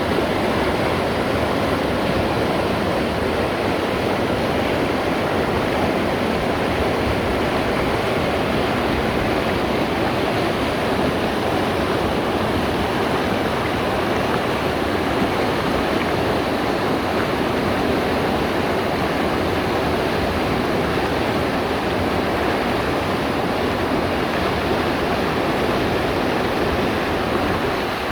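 Mountain stream rushing steadily, a loud, even water noise.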